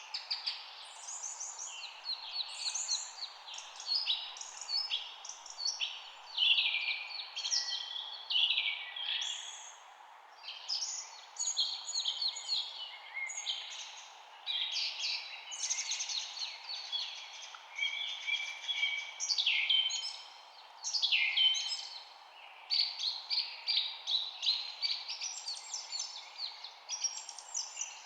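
Birds chirping and singing, a dense, unbroken chorus of short overlapping chirps and trills from several birds, over a steady faint background hiss.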